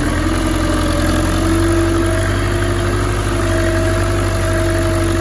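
Belarus tractor's diesel engine running steadily, with a steady higher tone held over the low hum.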